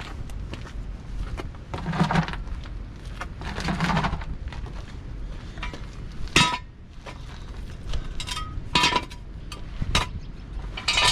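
Metal clanking and clinking under a truck being raised for work: rough scraping and rattling at first, then several sharp metal-on-metal strikes that ring briefly.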